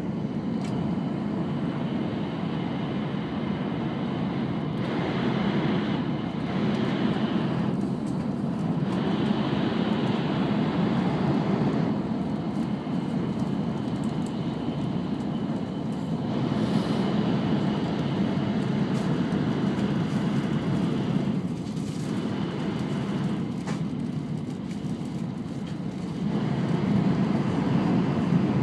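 Interior noise of an E5 series Shinkansen car running at speed: a steady low rumble and rush of wheel and air noise. It gets louder near the end.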